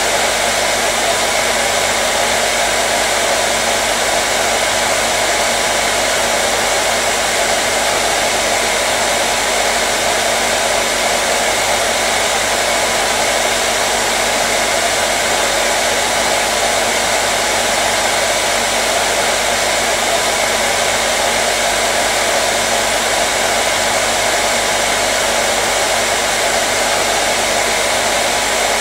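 Hair dryer running steadily at a constant speed: an even rushing of air with a steady motor hum underneath.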